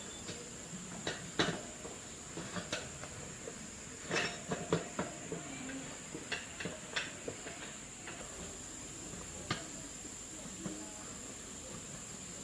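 Irregular light clicks and clinks of small hard objects being handled, bunched about four to seven seconds in, over a steady high hiss.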